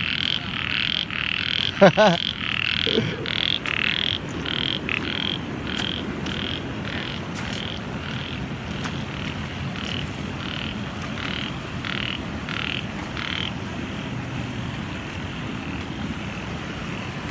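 Frogs calling in a regular series of short croaks, about two a second, thinning out and stopping about thirteen seconds in. A brief voice-like call sounds about two seconds in.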